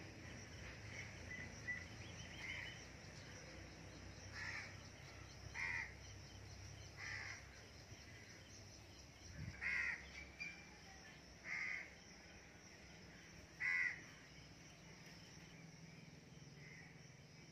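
A bird calling about six times at irregular intervals, each call short, over a faint low background hum.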